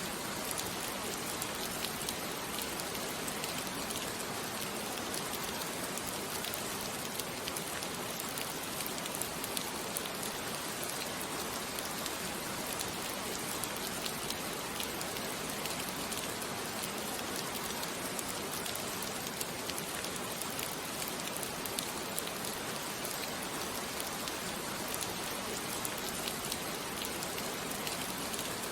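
Steady rain falling and pattering on a surface, an even hiss with fine drop ticks and no thunder.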